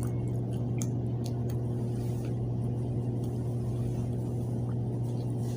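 A steady low mechanical hum with a constant drone. A few faint clicks come in the first second and a half.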